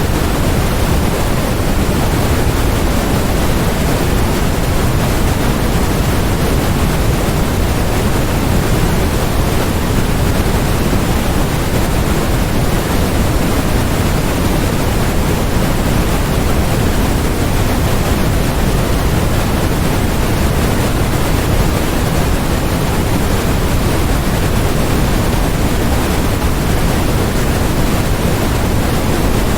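Steady generated noise track sold as white noise: an even, unbroken hiss, heavier in the low end than in the highs.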